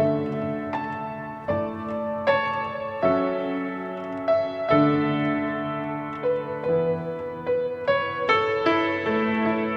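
Gentle background piano music: sustained chords and single notes struck at a slow, even pace.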